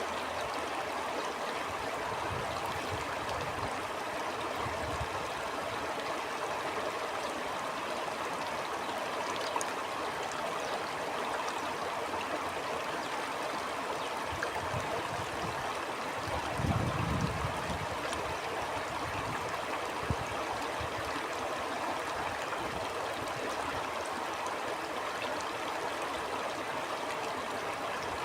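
Stream water flowing steadily, a continuous rushing and gurgling, with a brief low rumble a little past halfway.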